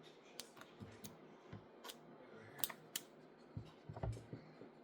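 Scattered small clicks and snips of scissors and plastic packaging, as the plastic ties holding a boxed doll are cut and pulled free.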